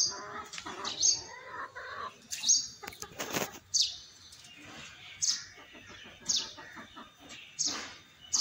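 A small bird repeats short, high, falling chirps about once a second, with one brief harsh noise a little over three seconds in.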